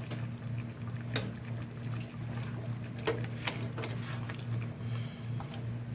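Cooking pot of creamy chicken curry just loaded with potato, carrot and bell pepper: liquid sloshing, with a few sharp clinks of a utensil against the pot over a steady low hum.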